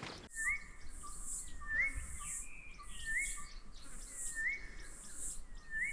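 A bird repeating a short rising whistle about every second and a half, five times, over a steady pulsing buzz of insects.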